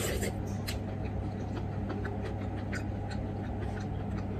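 Close-up eating sounds: a spoonful taken into the mouth, then chewing with irregular soft clicks and smacks, over a steady low hum.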